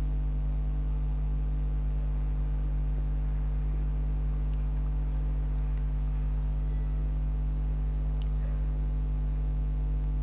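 Steady low electrical hum made of several even, unchanging tones.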